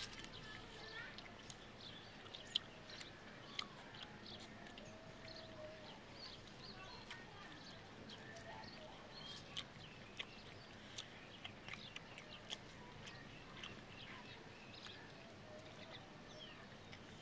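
Faint chewing and lip-smacking of people eating rice by hand, with scattered sharp clicks.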